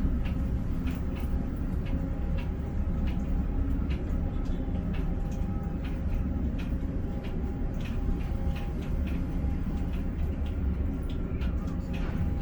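Ship-to-shore container crane machinery running: a steady low drone with faint whining tones and scattered light clicks and ticks.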